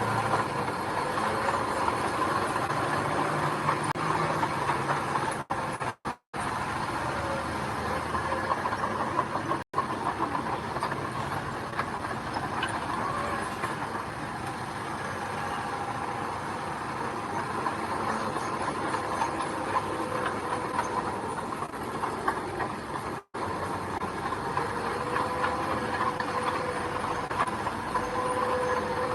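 Heavy diesel earthmoving machinery running steadily, with the sound cutting out completely for an instant three times.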